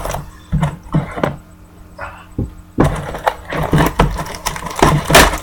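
Cardboard trading-card blaster boxes being torn open and handled: a few scattered taps at first, then a quick run of sharp tearing and knocking sounds from about three seconds in.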